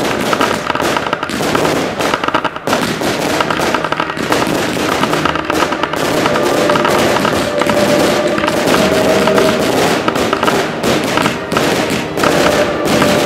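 Fireworks going off in quick succession: a dense run of bangs and crackling bursts, with steady tones sounding over them from about halfway through.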